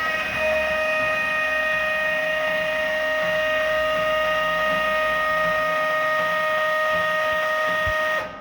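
LeBlond Makino 19" x 54" lathe running, with a steady, high, even-pitched whine from the machine that stops abruptly near the end.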